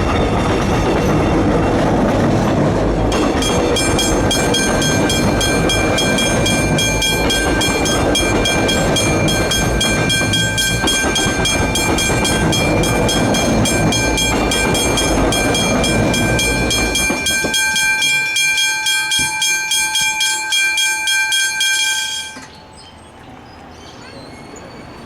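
A suburban train passes over a level crossing with rumbling and wheel clatter that fade out after about 17 seconds. Over it, the crossing's warning bell rings in a rapid, even pulse, growing clear about 3 seconds in and cutting off suddenly near the end.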